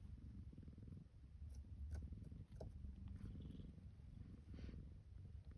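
Burmese kitten purring steadily, a low fast-pulsed rumble, with a few faint clicks.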